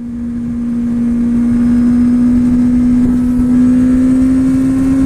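Kawasaki Ninja ZX-6R's inline-four engine running at steady high revs while riding, its note creeping slowly higher, over constant road and wind noise. The sound fades up over the first second or so.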